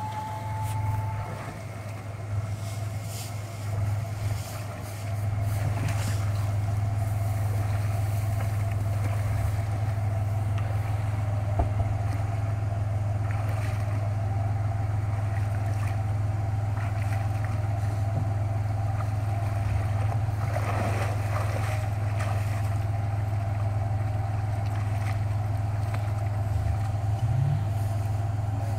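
Off-road SUV's engine idling steadily, a constant low hum while the vehicle sits stuck in a creek.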